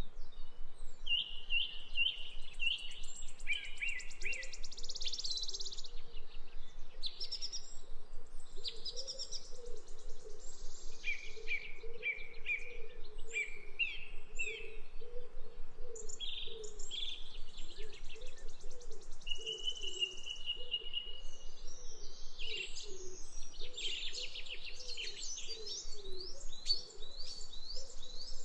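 Several birds chirping and singing in quick trills and repeated notes, over a steady background hiss.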